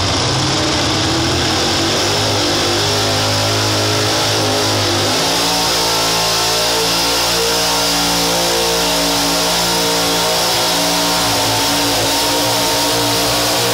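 Pulling truck or tractor engine running loud at high revs under load. Its pitch climbs over the first few seconds, shifts suddenly about five seconds in, then holds high and steady.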